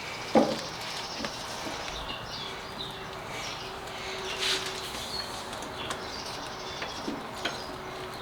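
Small birds chirping here and there in the background, with a sharp knock about half a second in.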